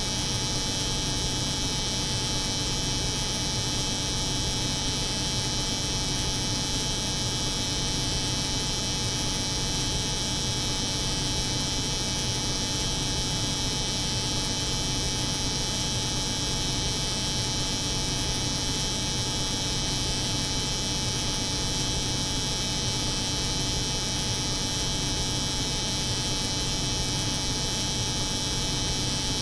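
Electric hair clipper buzzing steadily, layered with the constant hum of a cold room's refrigeration unit. The mix holds one even level with no change.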